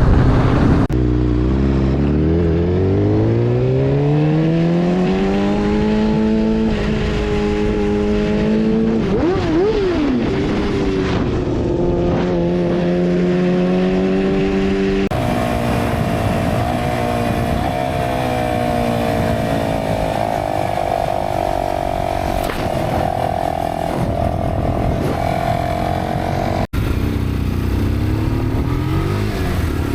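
Motorcycle engines heard from the rider's position, in three takes. The first engine climbs steadily in pitch for several seconds as it accelerates, then holds. After an abrupt change a second engine runs at a steady high pitch. Near the end a third engine revs up and down.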